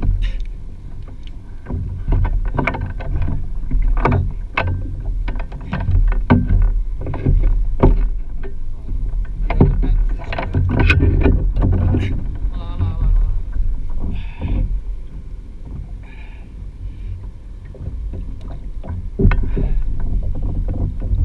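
Scattered knocks and bumps on a Hobie Pro Angler 14 fishing kayak as gear is handled aboard, over a steady low rumble of wind on the microphone.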